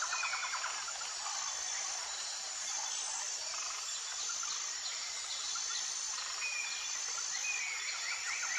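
Jungle ambience: a dense, steady insect chorus with a few short bird whistles, and a rapid pulsing trill coming back in near the end.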